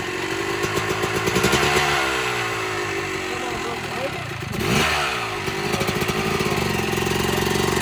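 Motorcycle engine running under uneven throttle, its pitch rising and falling, with a sudden drop and climb a little under five seconds in.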